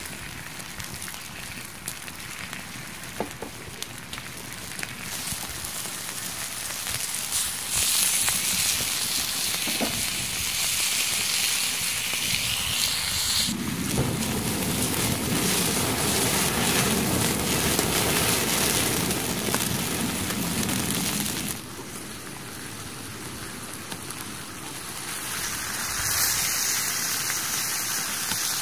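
Wood fire crackling under a steady sizzling hiss, the sound changing abruptly a few times.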